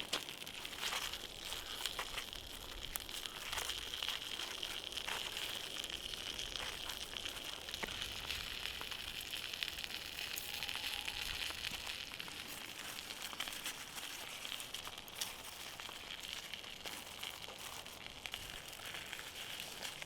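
Campfire crackling with scattered sharp pops over a steady hiss, the sound of a wood fire burning with pork ribs roasting over it.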